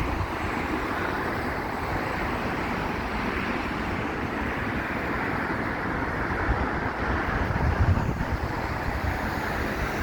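Steady road traffic noise, an even rush with no single pass-by standing out.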